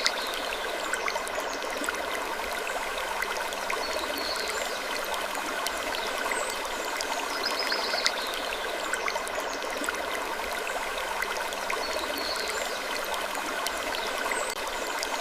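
Wood creaking sleep ambience: a steady, even rushing like running water, with a short higher sound recurring about every four seconds and scattered faint clicks.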